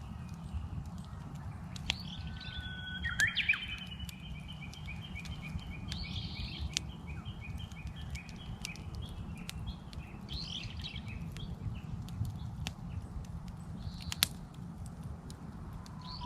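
Japanese bush warbler singing: a held whistle about three seconds in, then a long run of quick repeated notes lasting about six seconds, among short chirps of other birds. A wood fire crackles underneath with scattered sharp pops.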